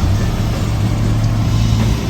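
Portable generator engine running at a steady speed, giving a constant low hum.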